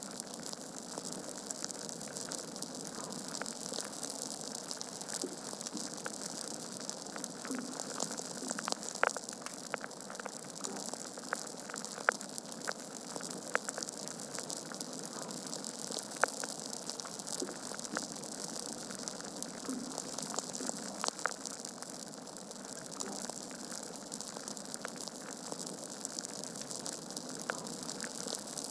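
Wood fire crackling in a fireplace: a steady hiss of burning logs with frequent sharp pops and snaps, a few louder ones scattered through.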